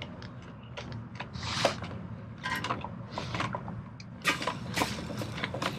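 Water squirted in short, irregular bursts onto a small fire of sticks to put it out, with light clicks in between.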